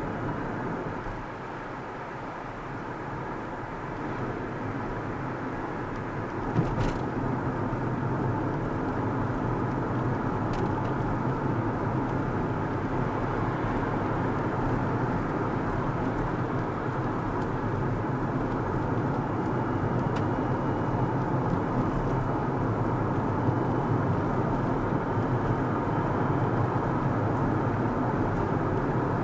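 Car driving along a road: steady tyre, engine and road noise that dips a little and then grows louder from about six seconds in, with a single sharp click about seven seconds in.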